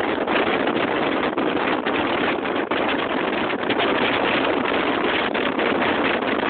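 Loud, steady rushing noise of a motorboat running at speed, mostly wind and water spray on the microphone, with frequent brief dropouts.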